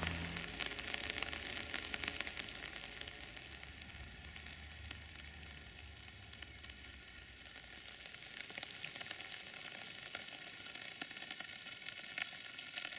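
Light rain falling, a steady fine patter and crackle of many small drop ticks.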